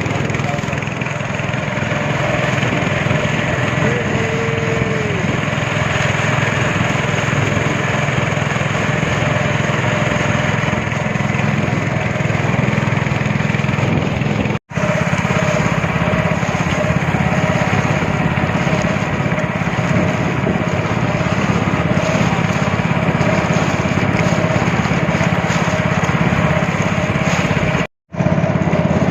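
Speedboat engine running steadily at speed, with the rush of water and wind along the hull. The sound cuts out briefly twice, about halfway and near the end.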